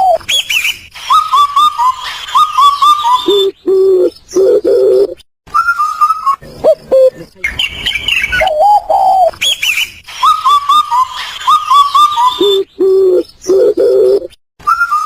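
Bird calls at several pitches: high trilling phrases, chirps in the middle range, and low repeated notes, broken by sudden short gaps. The same sequence of calls repeats about every ten seconds, as a looped recording.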